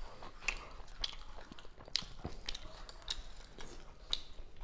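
Close mouth sounds of eating chicken in gravy with roti: chewing and lip smacks, heard as a scatter of soft, irregular clicks.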